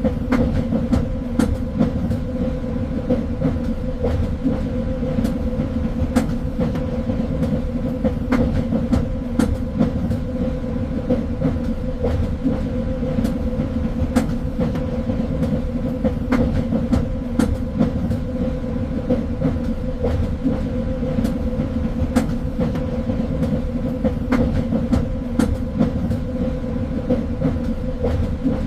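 A train running along the track: a steady low rumble with a constant hum, and irregular sharp clicks and knocks from the wheels on the rails.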